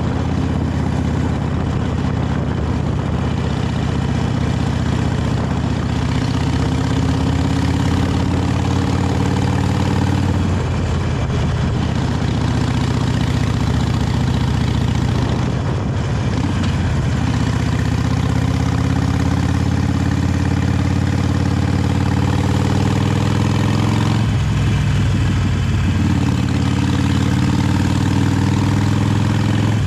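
Harley-Davidson Sportster 883 Iron's air-cooled V-twin on its original exhaust, heard while riding: the engine note climbs steadily as it pulls, then drops briefly about 10, 16 and 24 seconds in as it shifts up a gear, and climbs again each time.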